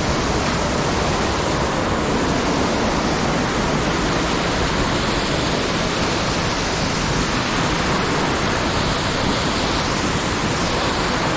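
Steady, loud rush of water from a mountain stream tumbling over rocks and small falls, unbroken throughout.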